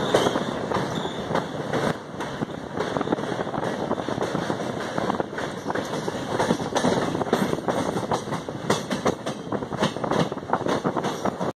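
Passenger train running, heard from an open coach door: wheels clattering over the rails and the coaches rattling, a steady din dotted with many short clicks.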